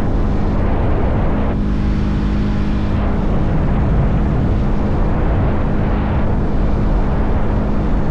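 Motorcycle engine running at a steady cruise, a constant hum under dense wind and road rush.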